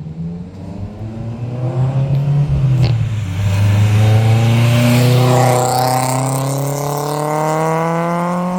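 Modified Honda Civic accelerating hard while pulling out, its engine pitch climbing steadily. The pitch dips briefly about three seconds in at a gear change, then climbs again.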